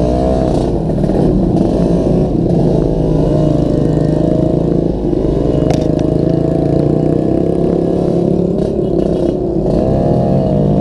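Yamaha RX-King two-stroke motorcycle being ridden, its engine note rising and falling several times as the throttle opens and eases off, with the exhaust rattling and jingling badly.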